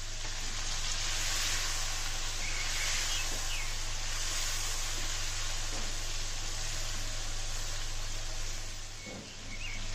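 Tomatoes and ground spices sizzling in oil in a cast-iron karahi, a steady hiss, as a silicone spatula stirs the masala.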